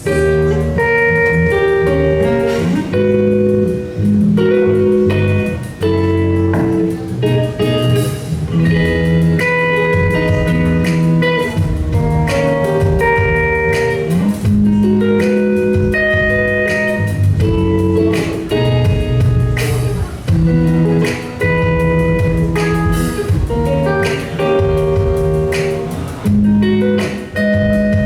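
Live guitar music, with a series of steady notes played over a bass line.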